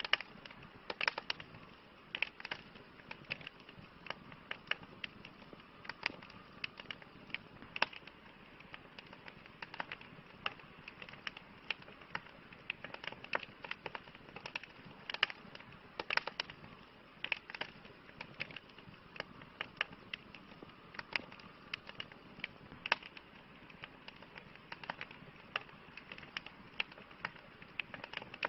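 Campfire crackling: irregular sharp pops and snaps, several a second, over a soft steady hiss of the burning wood.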